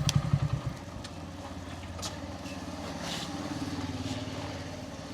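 Bajaj Pulsar N160's single-cylinder exhaust pulsing loudly, then dropping to a quieter, steady run less than a second in, as at idle or when rolling off the throttle.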